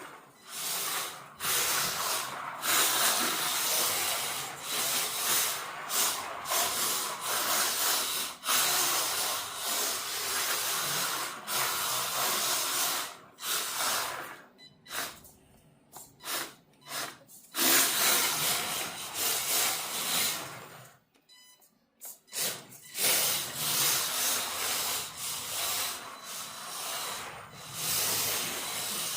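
Mini RC drift car being driven in spurts, its hard drift tyres hissing as they slide on the floor while its small electric motor runs. The noise stops briefly a few times, around the middle and about two-thirds through.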